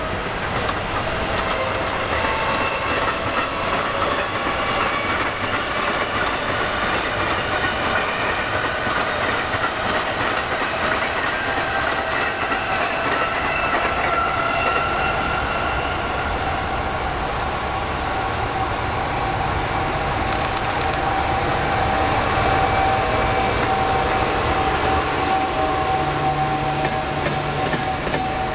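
Freight train passing: a JR Freight EF210 electric locomotive followed by Koki container flatcars rolling by, wheels clattering over the rails. Steady whining tones run through the rolling noise, some slowly falling in pitch.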